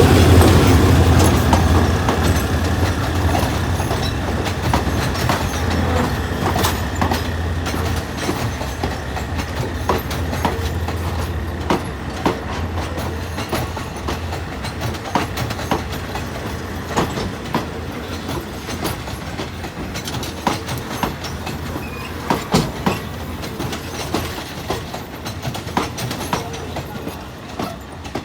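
Diesel train rolling slowly through the station tracks, its wheels clicking again and again over rail joints and points. The engine's low drone is strong at first and fades over the first dozen seconds, while the clicks carry on.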